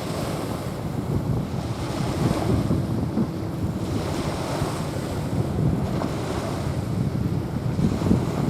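Small waves washing onto a sandy shore in a steady hiss that swells and eases every couple of seconds, with wind rumbling on the microphone.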